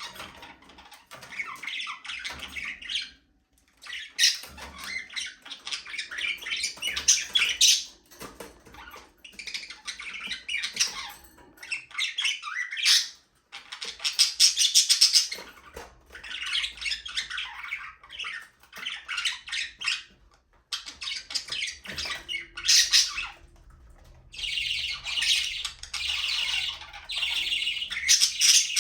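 A flock of budgerigars chirping, warbling and squawking together in runs of a few seconds with brief pauses between them.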